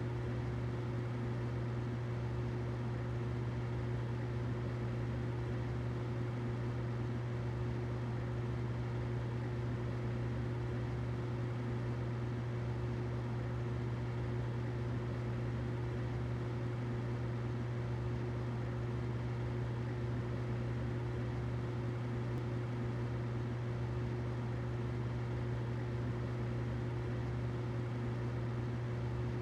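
Humidifier running steadily: a constant low hum with an even hiss over it.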